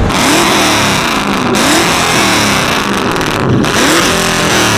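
Car engine revving hard, its pitch climbing and dropping several times in a row, over a loud hiss.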